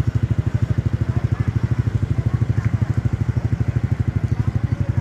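Motorcycle engine idling close by, a steady chugging of about a dozen beats a second. Faint voices of people around it.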